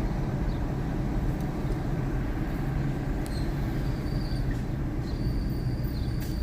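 Steady engine and road noise heard from inside a vehicle's cabin while driving at speed.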